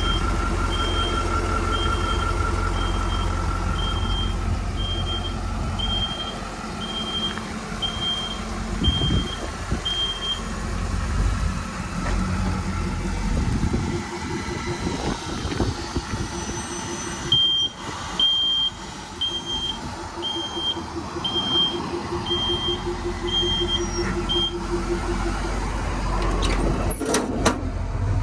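Backup alarm beeping about once a second over a running diesel truck engine; the beeping stops around the middle for several seconds, then resumes for about seven seconds. A few sharp knocks near the end.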